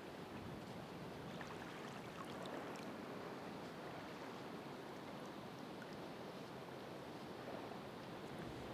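Ocean waves washing onto the shore: a steady rushing wash with a few faint crackles of spray.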